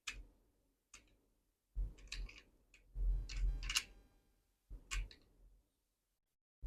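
Handling noise from a small diecast model car: a run of sharp clicks and light taps at irregular intervals, some with dull thuds underneath, the loudest cluster about three seconds in.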